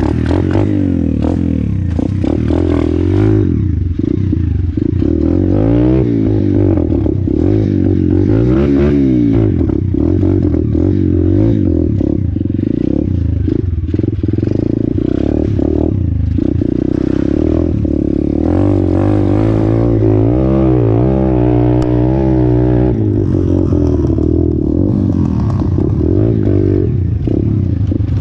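Orion 125cc pit bike engine running under way, its pitch rising and falling again and again as the throttle is opened and shut.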